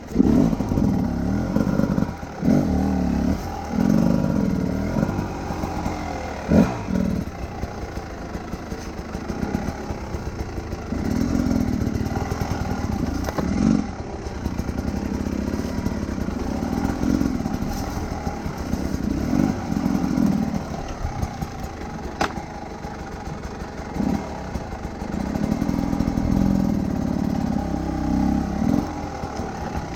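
Enduro motorcycle engine revving up and falling back over and over as the bike is ridden, with clatter and a few sharp knocks.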